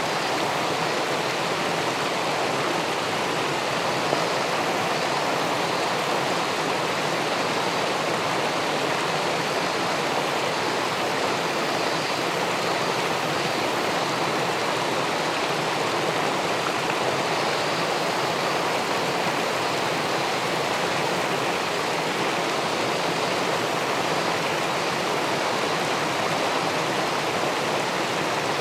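Steady rushing of river water pouring over a weir into the pool below it.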